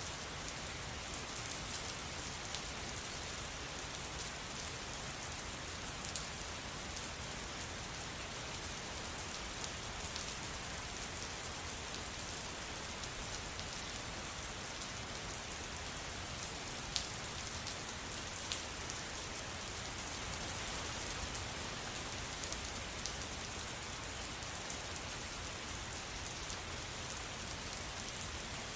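Steady rain falling, an even hiss with scattered sharper drop ticks here and there.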